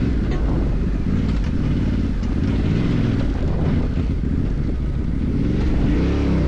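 Off-road motorcycle engine running under the rider, its pitch rising and falling as the throttle is worked over rough trail, with wind rushing on the microphone.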